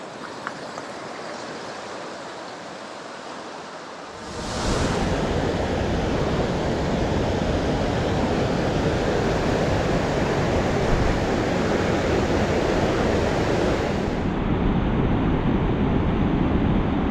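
Waterfall rushing, a steady roar of falling water that jumps suddenly much louder about four seconds in.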